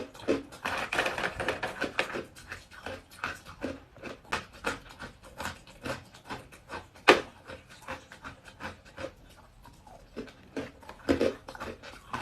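Close-up chewing of crunchy, small hard ice: irregular crunches and crackles in the mouth, with one sharp loud crack about seven seconds in.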